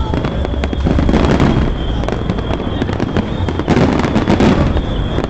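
Fireworks display going off densely: many bangs and crackles in quick succession, with no pause.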